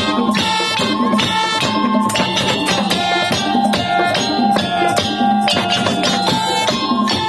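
Madurese tong-tong (daul) ensemble playing: a steady percussion beat with jingling, rattling hits under a sustained, stepping melody line.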